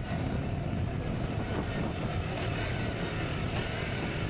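KTM Duke 125's single-cylinder four-stroke engine with an Akrapovic exhaust, running steadily while riding.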